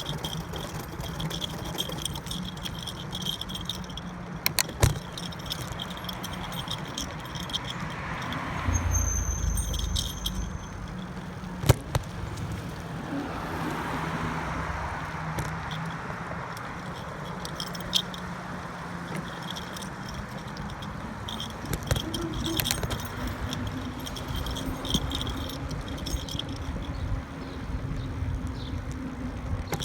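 Riding a bicycle: keys hanging on the handlebar jingle and the bike rattles over bumps, with a few sharp knocks. A vehicle swells past twice, about 9 and 14 seconds in.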